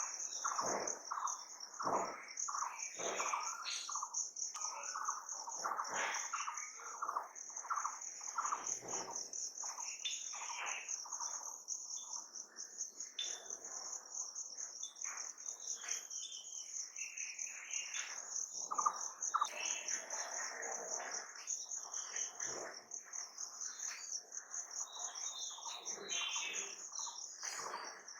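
Many birds calling in a busy chorus of short chirps and down-slurred notes, over a steady, fast-pulsing, high insect trill such as crickets.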